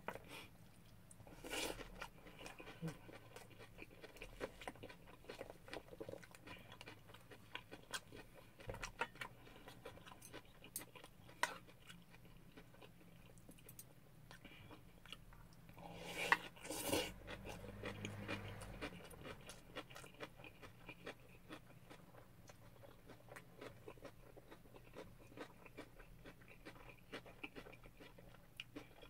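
A person chewing mouthfuls of shrimp fried rice, with a wooden spoon scraping and tapping a stainless steel bowl. Faint, with scattered small clicks and a louder clatter a little past halfway.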